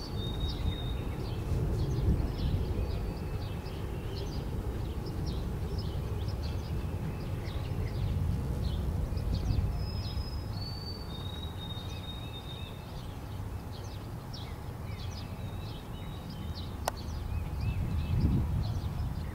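Outdoor ambience: songbirds chirping and singing, with a clear whistled phrase of notes stepping downward twice, over a steady low rumble. A single sharp click sounds near the end.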